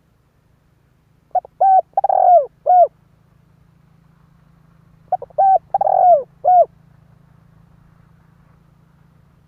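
Male spotted dove cooing as a decoy bird to draw wild males: two phrases of four notes each, a few seconds apart, the third note the longest and sliding down at its end.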